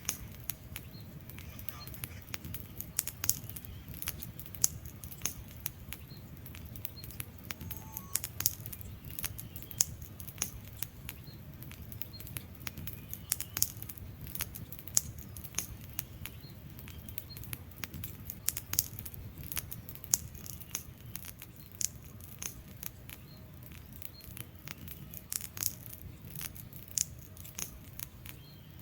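Wood fire burning in a fireplace: logs crackling and popping with many irregular sharp snaps over a low steady rumble of the flames.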